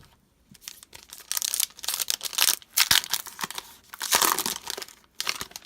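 Trading card pack wrapper being torn open and crumpled, a run of loud crinkling and ripping from about a second in until near the end.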